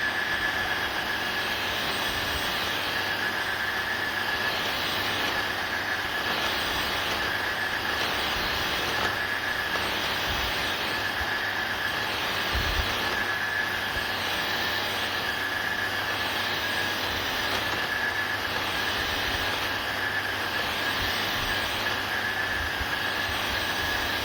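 Tineco iFloor 5 Steam wet-dry floor washer running: a steady high whine over a broad rushing of motor and suction noise.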